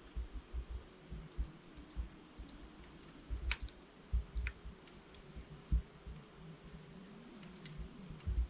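Wood logs burning in a fireplace, crackling and popping irregularly, with a few sharper snaps among softer low pops.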